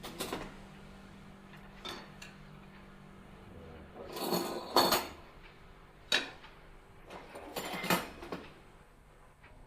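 Dishes and cutlery knocking and clinking as a table is set and food is served, in a handful of short separate clatters, the loudest group about four to five seconds in.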